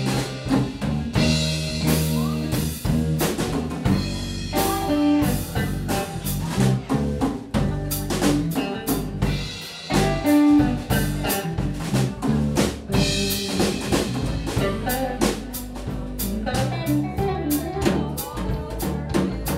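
Instrumental passage of a band song: drum kit with rimshots and bass drum keeping a steady beat under bass and other instruments, no singing.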